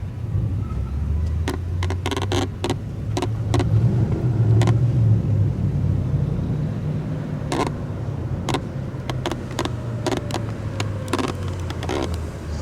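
A car engine idling with a steady, deep low rumble, with sharp irregular clicks or pops over it.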